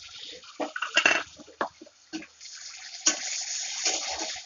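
Boiled dry dates dropped from a bowl into an aluminium kadhai of green chillies and nuts in hot oil: a few sharp knocks as the bowl meets the pan and the pieces land. Then a steady sizzle in the second half as a spatula stirs everything in the oil.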